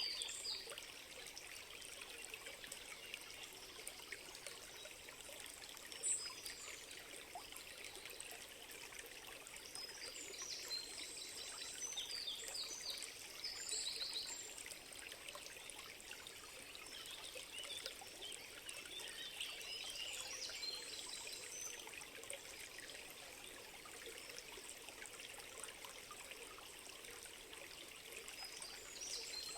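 Water trickling steadily like a small stream, with high bird chirps now and then, near the start, around the middle and near the end.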